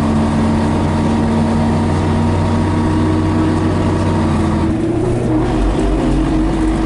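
Scania BR111H bus diesel engine running under way, with a steady engine note that changes abruptly about two-thirds of the way through to a different, higher tone.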